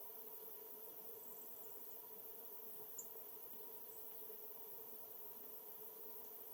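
Faint high, short bird chirps: a brief trill about a second in, then single chips around three and four seconds, over a steady low hum and hiss.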